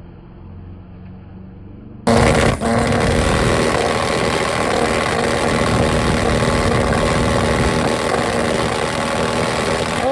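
Drag-racing motorcycle engine: a low idle at first, then about two seconds in a sudden jump to a loud, steady engine sound that holds at an even pitch.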